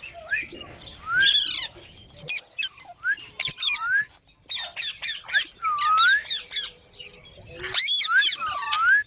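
Green parrot calling: a string of short chirps and squawks mixed with swooping whistles that dip and rise again, coming in quick bursts with short pauses.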